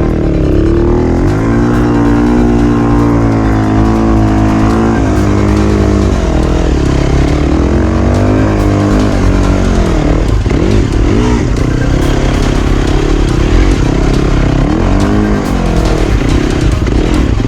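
Dirt bike engine revving up and down over and over, its pitch rising and falling in repeated surges, as the bike is dragged out of a sand-bottom river.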